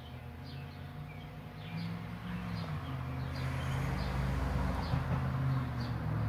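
A bird chirping repeatedly with short high notes over a low motor-like hum that wavers in pitch and grows louder.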